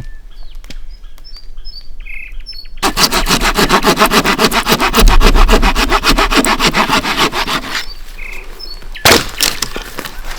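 Birds chirping, then a loud rapid run of strokes, about ten a second, lasting about five seconds, and a single sharp knock near the end.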